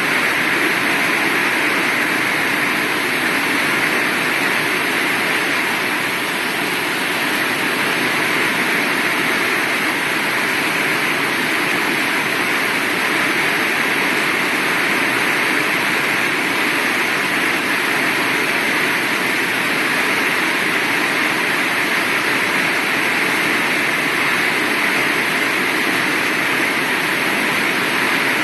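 Heavy rain falling as a steady, even hiss with no let-up or thunder.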